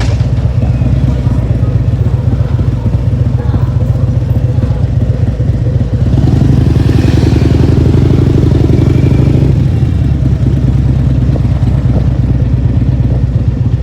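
Motorcycle engine running on the road during a ride, with heavy wind rumble on the microphone; it swells louder for a few seconds in the middle.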